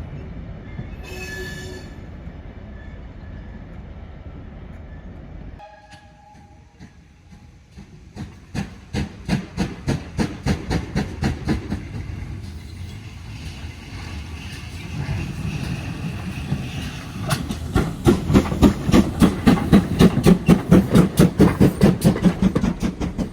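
A train running. First there is a steady rumble, then a short lull, then a regular beat of about two to three strokes a second that grows louder towards the end.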